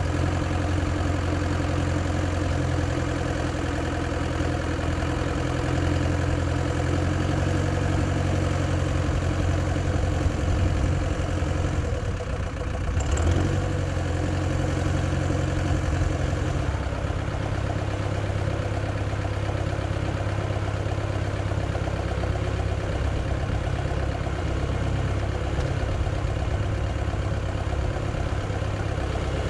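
Land Rover engine idling steadily under a replica train-locomotive body, its note briefly dipping and changing about 12 seconds in.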